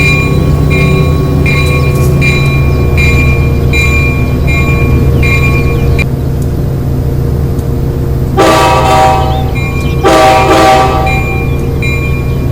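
Train horn sounding two blasts of about a second each, over a steady low rumble from the train. Before the horn a bell rings in a steady rhythm, about three strikes every two seconds; it stops about halfway through and starts again near the end.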